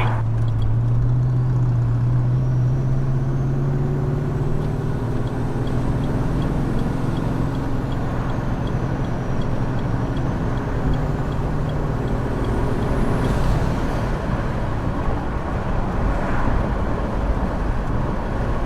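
Twin-turbo Cadillac Escalade V8 cruising at freeway speed with its rebuilt 8-speed automatic, heard from inside the cabin. There is a steady engine hum over tyre and wind noise, and the hum eases off about five seconds in.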